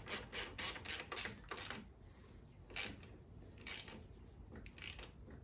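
Ratchet wrench clicking as a fork pinch bolt is tightened: a quick even run of about five clicks a second that stops nearly two seconds in, followed by three single clicks about a second apart.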